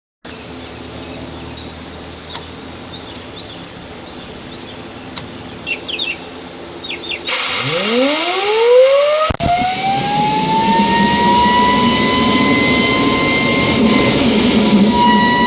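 Homemade turbocharger jet engine starting up: a low hum with a few faint ticks, then a sudden loud rush of air about seven seconds in as the turbo spools up, its whine rising steeply over about two seconds and then holding high and steady.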